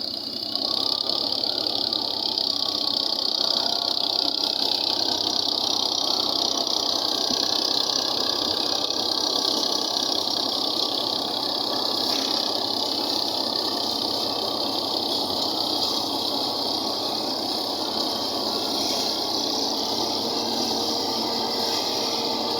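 1982 Fiat tractor running steadily with its maize machine, a continuous unbroken mechanical running noise.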